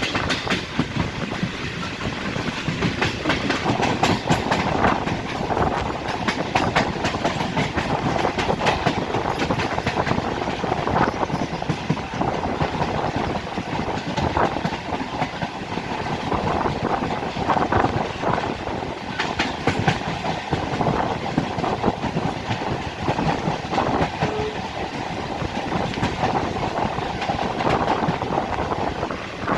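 Old electric multiple unit (EMU) local train running, heard from on board: a steady rumble with wheels clacking over rail joints.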